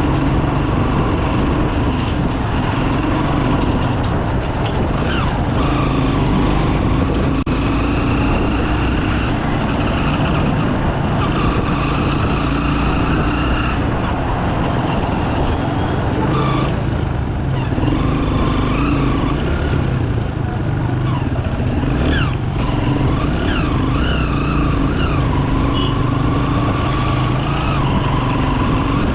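Bajaj Pulsar 200 motorcycle's single-cylinder engine running under way, its note rising and falling as the bike speeds up and eases off.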